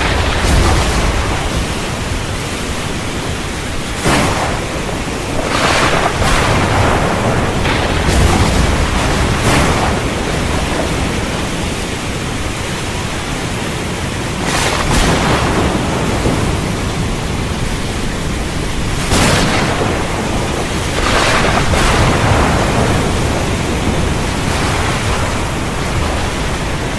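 Heavy rain pouring steadily, with a low thunder rumble underneath and several brief louder surges scattered through.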